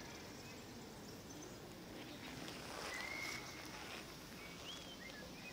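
Outdoor park ambience: steady background noise with a few short bird chirps, one longer about halfway and several more near the end, and some soft rustling around the middle.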